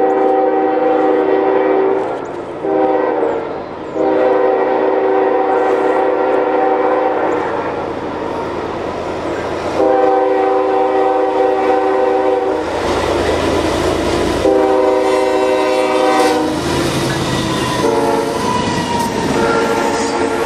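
Freight train locomotive air horn sounding a chord of several notes in repeated long and short blasts, the long, long, short, long grade-crossing signal, as the train approaches. The locomotives pass about 13 seconds in with a loud rush, then the freight cars clatter by on the rails.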